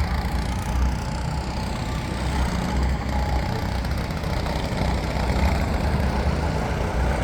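Go-kart engine running steadily, with a deep low rumble.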